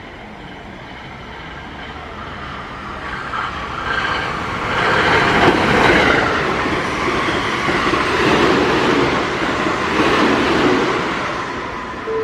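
Electric commuter train running along the station platform, growing louder to a peak about five seconds in and staying loud for several seconds before easing off near the end.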